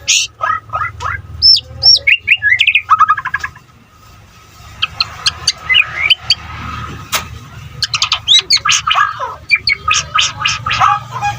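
White-rumped shama (murai batu, Medan type) singing: loud, varied whistles, rising and falling notes and rapid chattering runs, with a short break about four seconds in.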